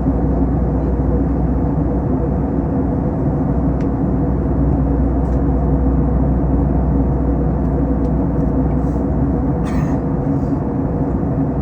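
Steady drone inside the cabin of an Airbus A321 airliner in flight: engine and airflow noise, with a low hum. A couple of faint ticks are heard, and a brief soft noise near the end.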